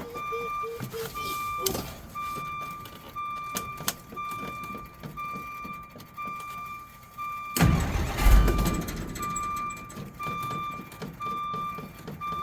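1963 Jeep Gladiator's starter cranking the engine for about five seconds, starting about halfway in; the engine does not catch, typical of its hard starting. Under it a repeating electronic beep, a little under two a second, with a few scattered clicks.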